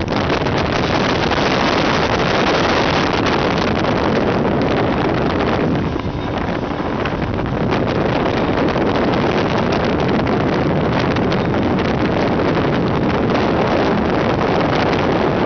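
Speedboat engine running at speed, with wind buffeting the microphone; the sound dips briefly about six seconds in.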